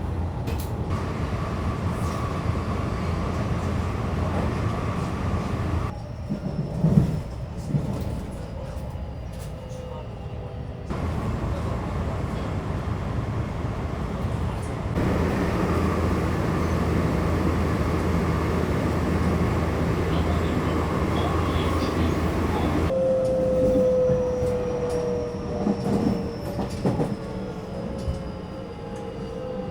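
JR local train running, a steady low rumble of wheels and carriage heard in several clips cut together. Near the end a single whine slowly falls in pitch.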